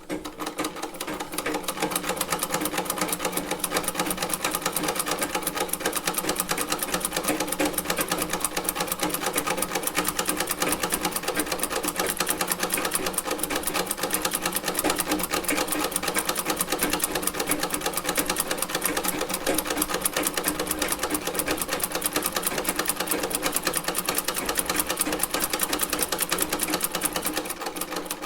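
A vintage sewing machine, nearly a hundred years old, stitching with a fast, even mechanical clatter. It comes up to speed over the first couple of seconds and stops right at the end.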